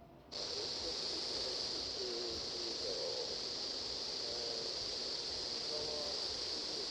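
A steady hiss of static that switches on abruptly just after the start, with faint warbling tones underneath.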